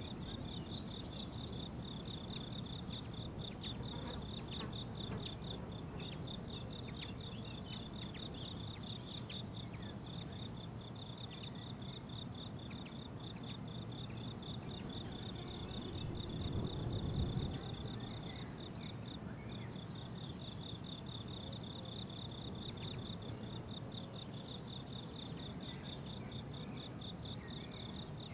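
Field crickets chirping steadily in a rapid, even pulse of high-pitched chirps, with a couple of brief pauses, over a faint low rumble.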